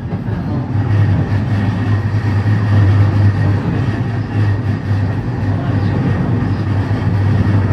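Running noise inside an electric commuter train moving along the tracks: a steady low drone over the rumble of wheels on rail.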